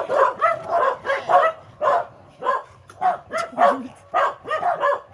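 Welsh corgis barking and yipping excitedly in a rapid string of short, high calls.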